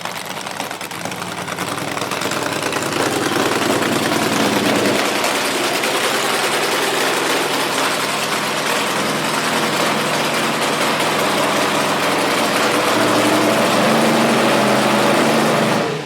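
Front-engine dragster's engine running, building over the first few seconds and then holding steady at a high, even pitch.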